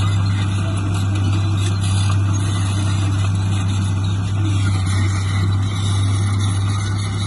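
Heavy diesel engine of earthmoving machinery running steadily, with a strong, even low hum and no changes in speed.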